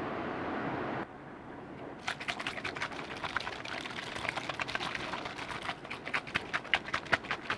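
Liquid handled close to the microphone: a steady hiss for about a second, a softer hiss, then from about two seconds in a dense, irregular run of small wet clicks and pops.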